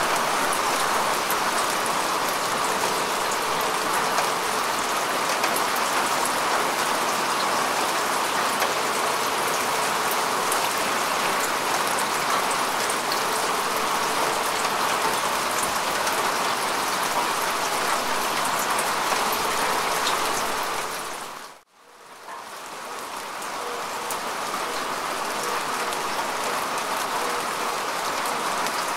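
Steady rain falling on grass and soil, an even hiss with fine patter of drops. About three-quarters through it dips briefly to near silence and fades back in.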